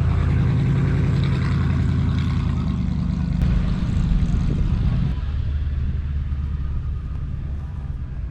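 A car engine running with a low, steady rumble, easing off about five seconds in and fading toward the end.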